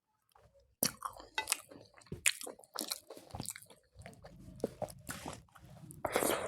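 Close-miked eating: crisp crunching bites and chewing, starting after a short quiet moment about a second in, with a louder crunch near the end.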